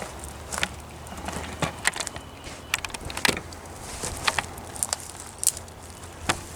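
Scattered clicks and knocks from gear being handled, over a low steady rumble.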